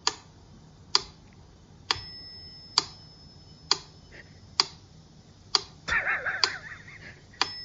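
Clock ticking slowly and evenly, about one tick a second, with a short wavering high-pitched sound near the end.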